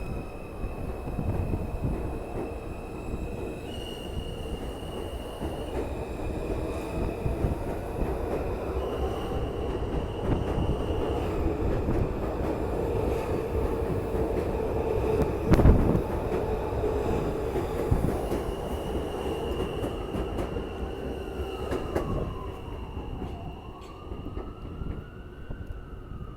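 R160B Alstom subway car running on the track, heard from aboard: a steady rumble of wheels on rail with the electric propulsion's high whine, which steps in pitch several times. There is a single loud knock a little past halfway. Near the end the motor whine glides downward and the rumble fades as the train slows.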